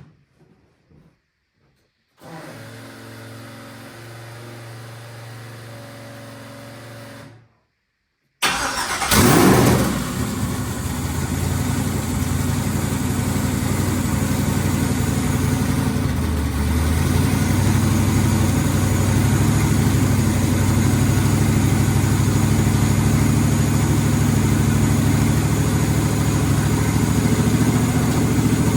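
Twin-turbo engine of a 1981 Chevrolet Malibu starting: a steady hum for about five seconds that cuts off, then the engine catches about eight seconds in with a brief rev and settles into a steady idle, a little louder about halfway through. It is being run to see whether intake vacuum is enough to work the brake booster.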